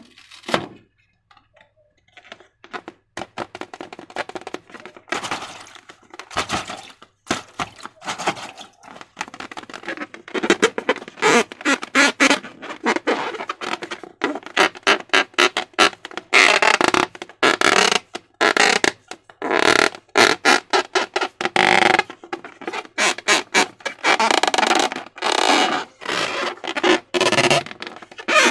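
Slime being squished and worked with rubber balloons: wet squelches and fart-like squeaks, sparse at first and coming thick and fast from about ten seconds in.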